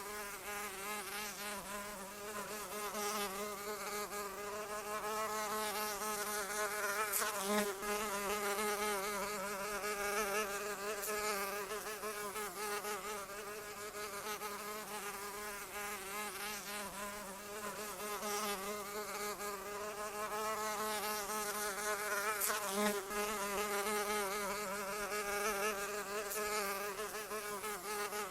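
Flying insect buzzing continuously in a steady drone, its pitch wavering slightly, with a couple of brief louder clicks about a quarter of the way in and again near the end.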